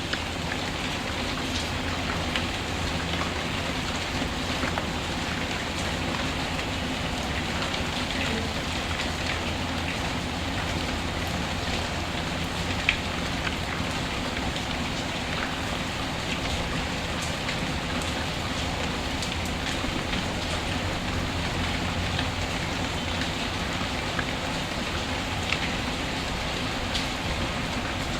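Steady rain falling, mixed with a fireplace's fire crackling now and then in soft clicks, with one sharper pop about 13 seconds in.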